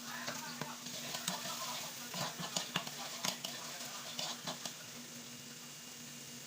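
Food sizzling in a pan while a utensil stirs it, with sharp clicks and scrapes against the pan; the stirring stops about five seconds in, leaving a quieter sizzle.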